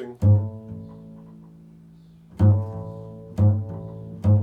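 Low plucked string notes in an improvised tone poem: one note rings out for about two seconds, then three more follow about a second apart, each with a sharp attack and a slow decay.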